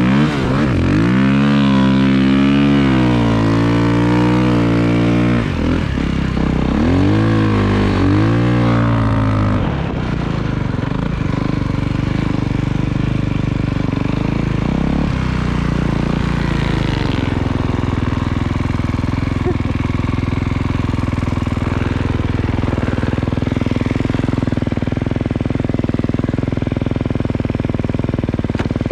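Snowbike engine revving, its pitch rising and falling several times in the first ten seconds, then running at a steady speed for the rest.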